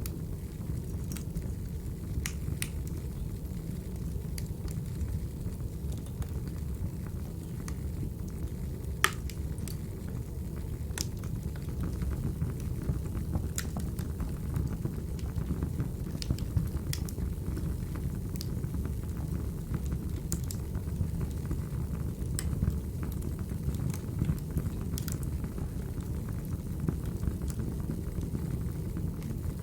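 Recorded crackling wood fire: a steady low rumble of flames with sharp pops and crackles at irregular intervals, one louder snap about a third of the way in.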